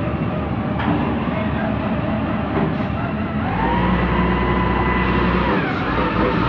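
Heavy diesel machinery running. Its engine revs up about three and a half seconds in, holds a higher whine for about two seconds, then drops back down.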